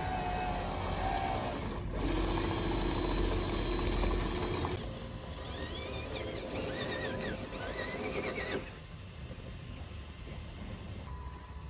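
Small electric motors and gearing of radio-controlled model construction machines whining and running, in short cut-together stretches, each with its own steady hum that changes abruptly with each cut.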